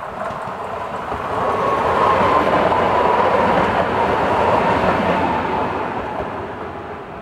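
EN98 electric multiple unit passing close by at speed: a rush of wheels on rail with a faint whine that sinks slightly in pitch. It swells to its loudest about two seconds in and fades toward the end.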